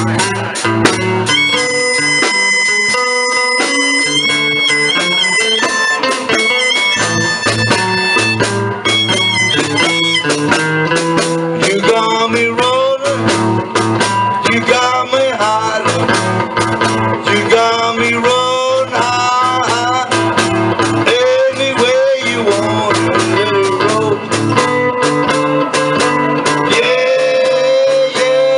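Live blues played instrumentally: picked guitar over a steady low rhythm, with a lead line of long held notes in the first part that turns to bending notes later.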